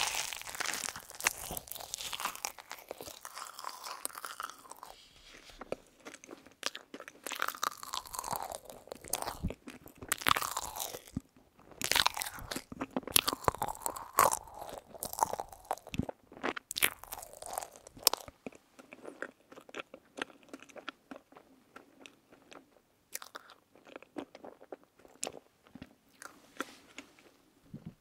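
Close-miked chewing of a mouthful of marshmallow, with many small sharp clicks. The chewing is dense for the first two-thirds, then thins to scattered clicks after about 18 seconds.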